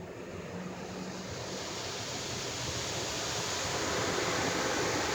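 Automatic car wash spot-free rinse: water spray hissing over the car, growing steadily louder as the rinse passes closer.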